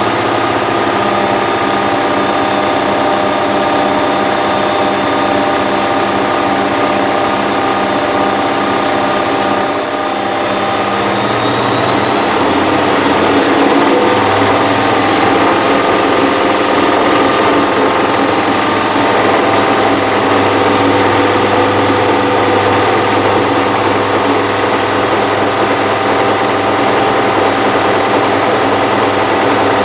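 Hoover VisionTech washer-dryer running its drying cycle, a loud steady machine whine. About eleven seconds in the whine rises in pitch and holds steady at the higher pitch as the motor speeds up.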